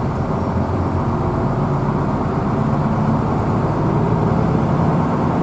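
Steady running noise of a Hino AK bus's diesel engine and road noise, heard from inside the cabin while under way: a continuous low hum with no sudden changes.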